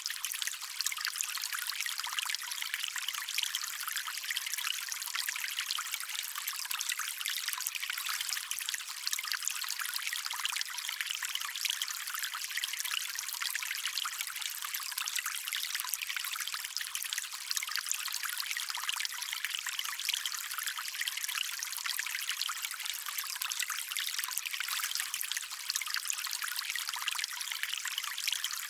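Small stream trickling and running over stones, a steady bright hiss of water with no low rumble.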